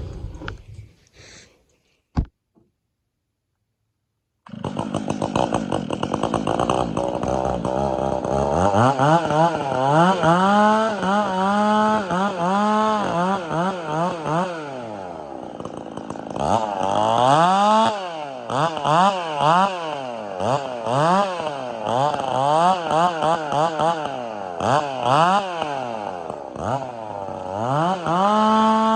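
Chainsaw fitted with a 32-inch bar, coming in about four seconds in and then revving up and down over and over, with stretches held at high revs, as it bucks a tamarack log into firewood rounds.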